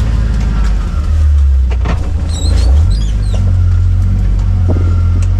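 Low, steady rumble of a four-wheel-drive vehicle running, with a few brief high squeaks about two to three seconds in.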